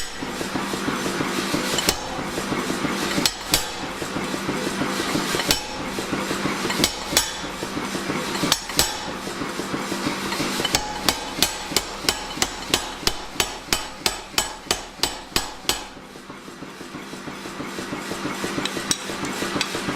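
Hand hammer blows on steel, striking a spring swage to form a ball on the end of a bar. Scattered strikes at first, then a quick even run of about three blows a second from about halfway, stopping about four seconds before the end, over a steady hum.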